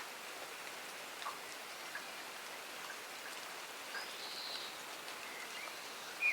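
Steady rain falling in a garden, with scattered individual drops ticking. A bird gives a few short calls in the second half, the loudest near the end.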